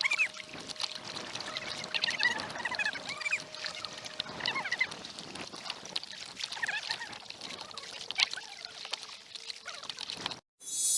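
Kayak paddling: water splashing and dripping off the paddle in irregular strokes, mixed with short, high chirping squeaks. The sound cuts out briefly near the end and gives way to a steady hiss.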